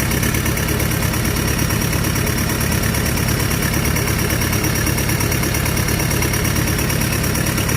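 Hino J05E four-cylinder diesel of a Kobelco SK200-8 excavator idling steadily on its test run after a top overhaul.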